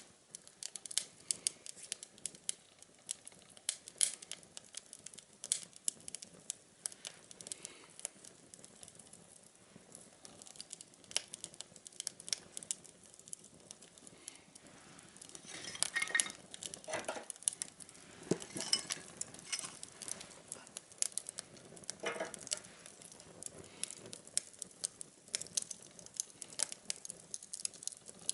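Small fire of twigs burning in a homemade tin-can stove, giving off many sharp, irregular pops and crackles, with a few louder clattering knocks around two-thirds of the way in.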